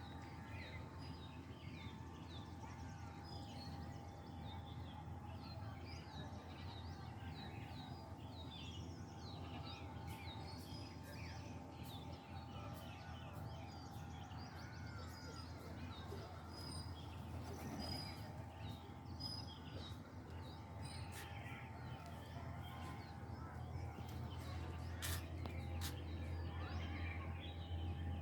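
A dense chorus of many birds calling at once, with crows cawing among the chirps, over a steady low hum. A few sharp clicks come near the end.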